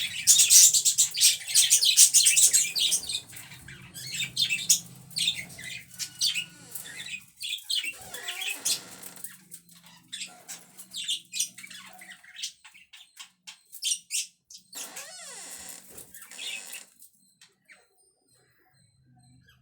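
Pet budgerigars chattering and chirping, busiest in the first few seconds, then in sparser calls that die away near the end.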